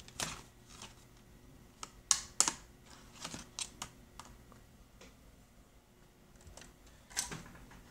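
Irregular sharp clicks and taps, about a dozen, unevenly spaced, over a faint steady hum.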